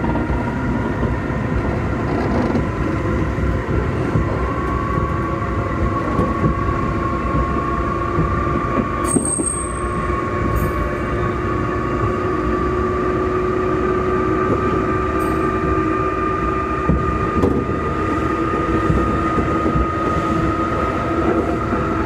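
Running sound inside a Keikyu 2000-series electric car, DeHa 2052, whose traction motors, thought to be Mitsubishi-made, give an unusual whine: rumble of wheels and bogies under a motor whine that rises slowly in pitch as the train gathers speed. A brief high squeal sounds about nine seconds in.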